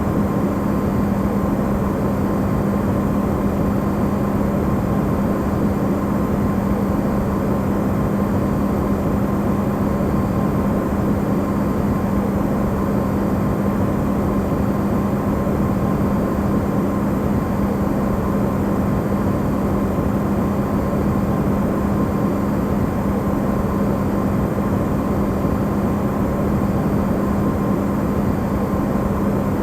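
Electrolux refrigerator running, recorded amplified: a steady even hum with a low drone and a fainter higher tone, unchanging throughout.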